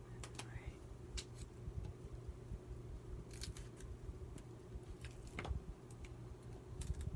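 Craft supplies and paper being handled and rummaged through, giving scattered clicks, taps and short rustles over a steady low hum.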